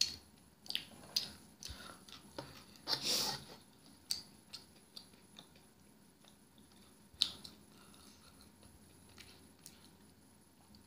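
A person chewing crispy pan pizza close to the microphone: scattered crunches and mouth clicks, the longest crunch about three seconds in and a sharp click about seven seconds in.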